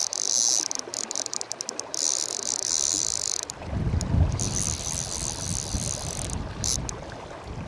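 Stillwater PL-C fly reel's ratchet buzzing in high-pitched bursts, with a rapid stutter about a second in, while a hooked fish is played. Wind rumbles on the microphone from about halfway.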